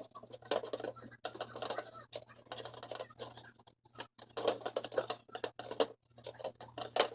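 Irregular scraping and rustling with scattered clicks, as of objects being handled and rubbed, over a low steady hum; it cuts off suddenly at the end.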